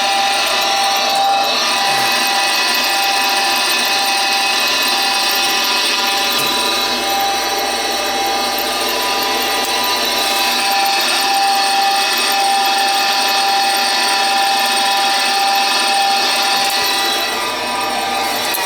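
Gas furnace draft-inducer motor running with a steady whine while the furnace tries to light. The burners do not light because the gas valve is not opening, which the technician takes for a bad gas valve.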